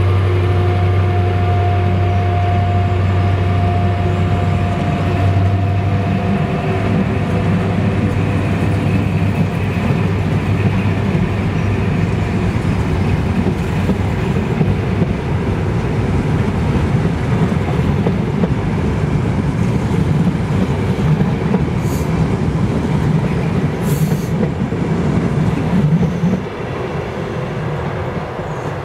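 A pair of Class 73 locomotives passing close by, their diesel engines running with a steady hum, followed by the long rumble of sleeper coaches' wheels on the rails. The sound drops as the last coach goes by near the end.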